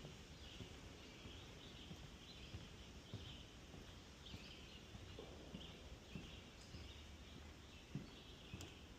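Soft footsteps on a wooden boardwalk, heard as scattered low thumps, over faint high chirping calls that repeat about twice a second.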